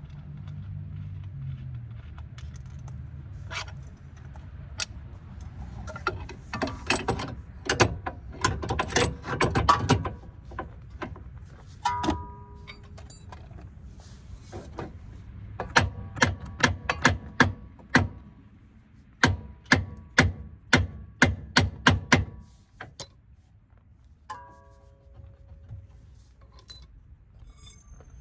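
Hand tools clinking and knocking on metal car suspension parts while a control arm is refitted: two runs of quick, sharp strikes at roughly two or three a second, and a few short metallic rings.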